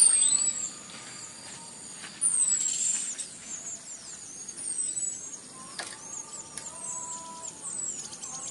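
Orange-headed thrush (anis merah) in full, continuous song: a rapid run of high, falling whistles, the loudest phrases at the start and again about two and five seconds in, with some lower steady whistled notes shortly after.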